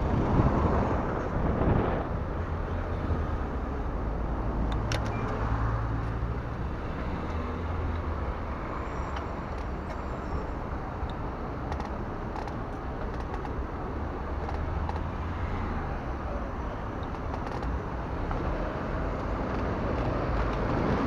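Wind rushing over the microphone with road traffic noise, a low vehicle hum coming up twice for a few seconds.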